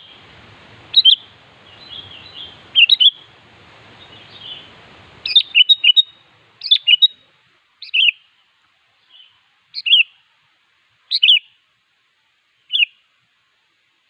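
Sooty-headed bulbul calling in short, bright phrases: a few over a low background hiss, a quick run of calls about five seconds in, then single calls every second and a half or so. The hiss cuts off suddenly just before that run of calls.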